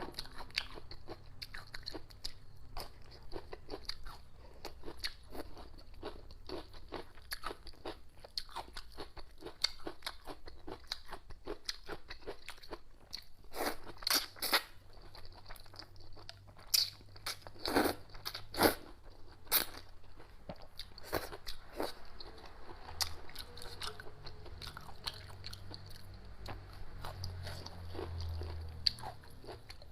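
A person chewing and biting crunchy food, with irregular crunches and clicks throughout and a few louder bites around the middle.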